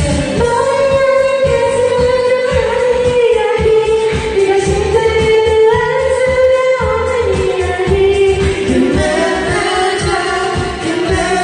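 A voice singing an upbeat Korean pop song along to a karaoke backing track with a steady drum beat.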